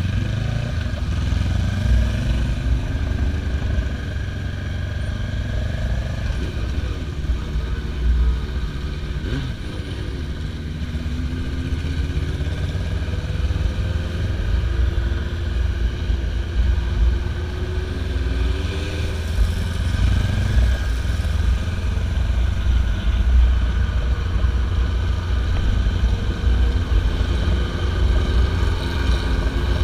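Motorcycle engines running on the road, their pitch rising and falling with the throttle, over a steady low rumble.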